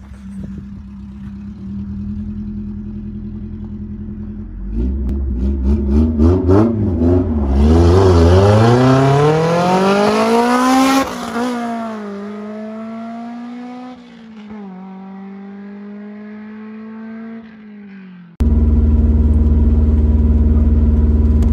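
2005 Honda S2000's 2.2-litre four-cylinder engine run with the exhaust removed: a steady drone, then quick revs up and down, then a loud pull with the pitch climbing as the car passes, dropping to a lower pitch that steps down as it drives off. About eighteen seconds in it cuts to a steady low engine drone inside the cabin.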